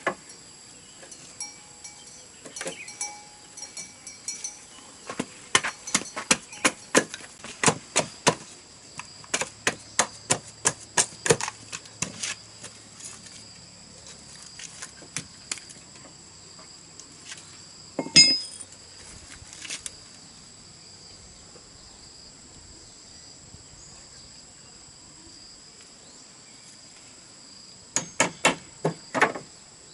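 Runs of quick, sharp tool strikes, two or three a second, on bamboo, pausing for several seconds at a time, with one louder strike midway. A steady high insect drone goes on underneath.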